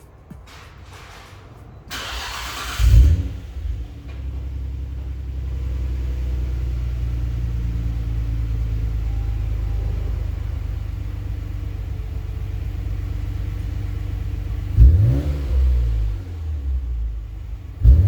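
2002 Nissan Skyline GT-R V-spec II's RB26DETT twin-turbo straight-six, through a Fujitsubo Legalis R Type Evo exhaust, cranked and started about two seconds in. It flares briefly, then settles into a steady idle. Near the end comes a quick throttle blip.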